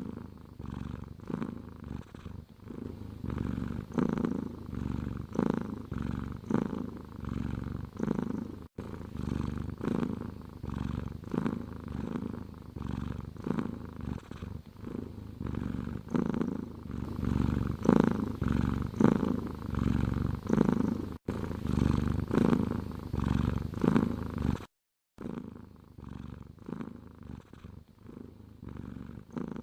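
Domestic cat purring close to the microphone, a low buzzing rumble that swells and fades with each breath. It breaks off briefly a few times and comes back quieter near the end.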